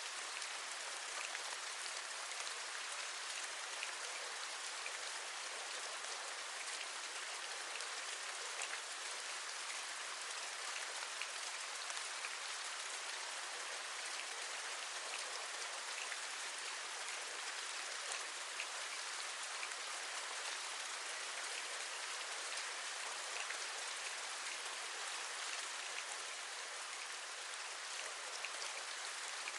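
Steady rain: an even hiss with many small drops ticking sharply all through.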